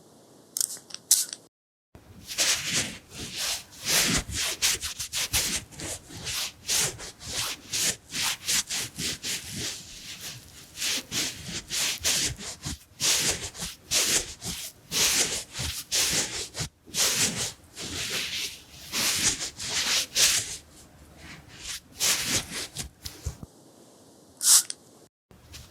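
Rapid rubbing and wiping strokes close on the microphone, ASMR face-cleaning sounds, about two to three strokes a second. They pause briefly at the start and again near the end.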